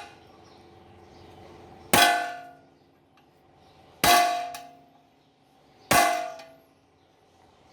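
Three hammer blows, about two seconds apart, on a thick metal washer laid over a 6205 ball bearing, driving the bearing into its seat in a washing machine's upper crossbar; each blow clangs and rings out for under a second. The bearing is still sinking in and not yet fully home.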